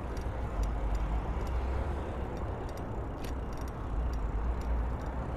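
Strong wind buffeting a phone microphone: a steady low rumble with a hiss above it, with faint scattered ticks.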